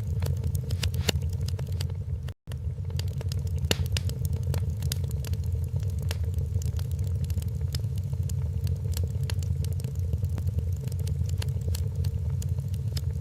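Fireplace fire crackling, with many irregular sharp pops over a steady low rumble. The sound cuts out completely for a split second about two seconds in.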